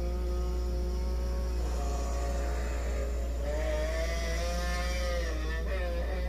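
Eerie moaning drone heard through a house: several sustained, wavering tones that slide to a new, higher pitch about a third of the way in and bend back down near the end, over a steady low hum. Its source is unexplained; the wind is up outside, yet it is not coming from the windows.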